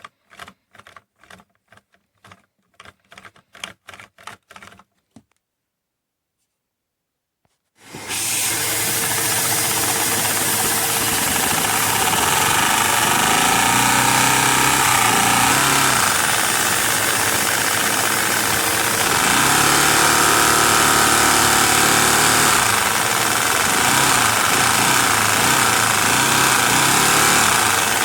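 Light, irregular clicking, a pause of about three seconds, then a LEGO vacuum engine running fast: a loud, steady mechanical clatter with a rush of air, its pitch rising and falling as the speed changes.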